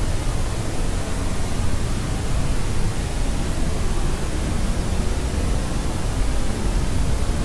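Steady, unchanging white-noise track for soothing a crying baby: an even hiss with a deeper rumble underneath, and no crying or other events.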